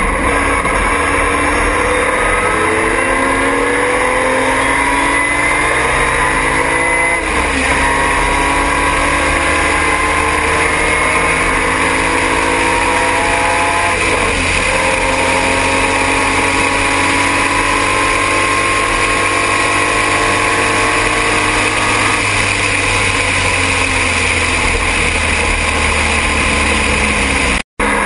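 Triumph TR6 race car's straight-six engine under hard acceleration, rising in pitch and dropping with a gear change about seven seconds in and again about fourteen seconds in. It then holds a steady pitch before easing off near the end. The sound cuts out for an instant just before the end.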